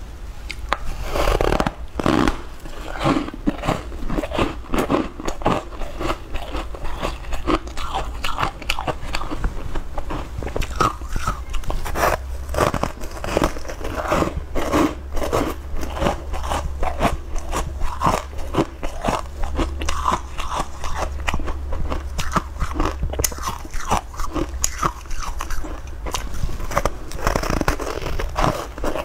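Close-miked eating of a soft steamed bun (mantou): repeated bites and steady chewing, many short mouth sounds in quick, irregular succession.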